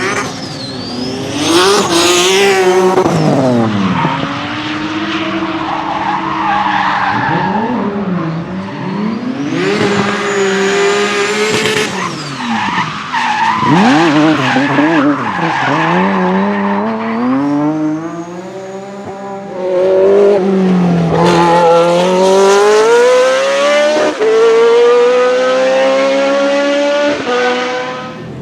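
Racing car engine at high revs, pitch climbing and dropping again and again as it accelerates, shifts and lifts off.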